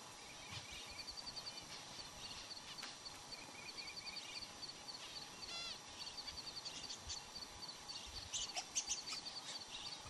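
Small birds calling: quick runs of short, high chirps, with a few louder, sharper calls about eight to nine seconds in.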